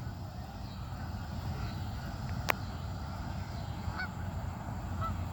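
Waterfowl giving two faint, short honking calls, about four and five seconds in, over a low steady rumble, with a single sharp click about halfway through.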